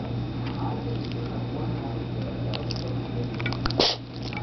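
A dog sneezing once, a short sharp burst near the end, after a few faint clicks.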